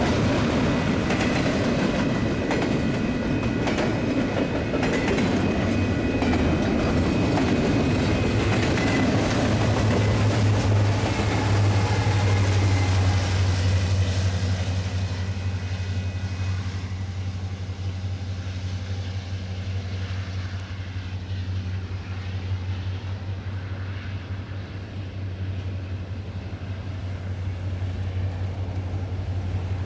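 Double-stack intermodal freight cars rolling past close by, with wheels clacking on the rails. About halfway through, mid-train diesel locomotives (DPUs) pass, adding a strong steady low engine hum that carries on as the car noise fades.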